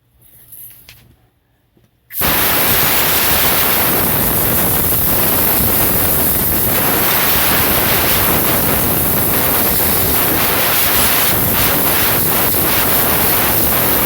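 Compressed-air blowgun blowing a loud, steady hiss of air, starting suddenly about two seconds in, to blow the dust off a stuffed toy bear.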